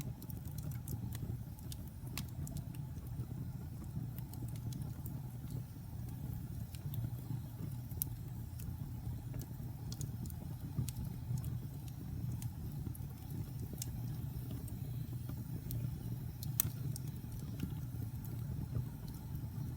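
Wood fire burning in an open fireplace: a steady low rumble of flames with scattered sharp crackles and pops from the burning logs.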